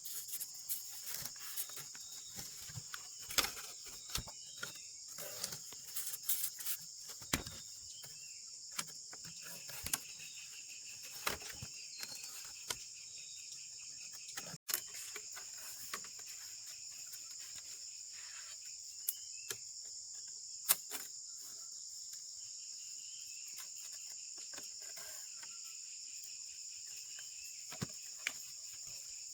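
Steady high-pitched chirring of a cricket and insect chorus, with a second, lower insect trill that comes and goes. Scattered short clicks and knocks sound over it, most of them in the first half.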